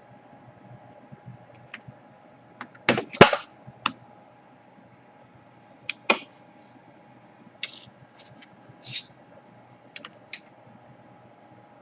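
Scattered clicks and clatter of small hard plastic and metal parts being handled on a workbench during laptop reassembly, with a loud cluster of knocks about three seconds in and lighter clicks later.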